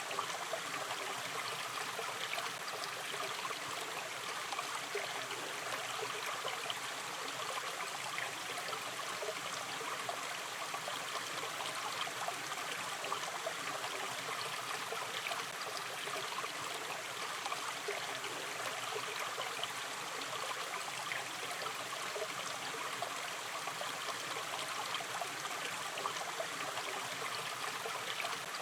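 Gently running river stream flowing steadily, a constant babble of water with small trickles and splashes.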